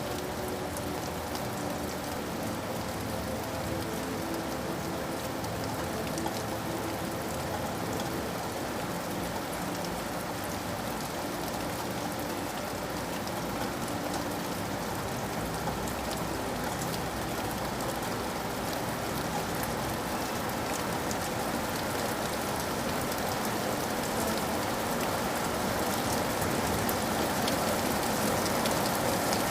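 Steady rain falling: an even hiss with scattered drop ticks, growing a little louder toward the end.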